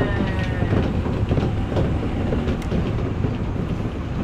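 Odakyu electric train running at speed: a steady rumble with wheels clicking over rail joints, and a faint electric motor whine that dips slightly in pitch near the start.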